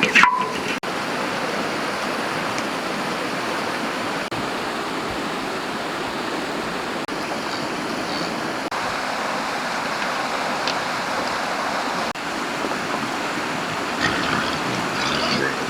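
Flowing stream water: a steady rushing.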